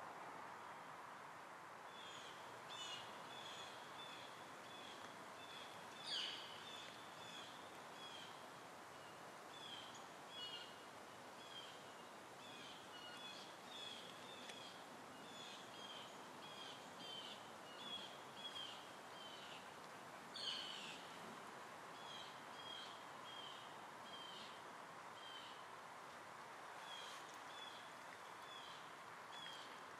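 Small birds chirping in short, repeated high notes, with two louder calls about six and twenty seconds in, over a faint steady hum of distant background noise.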